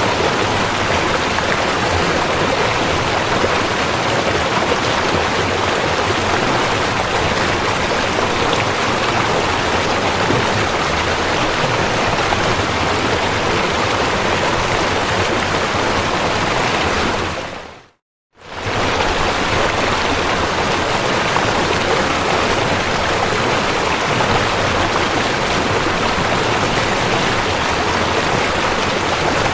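River water rushing steadily, an even, unbroken flow. About two-thirds of the way through it fades out to silence for half a second, then comes back as before.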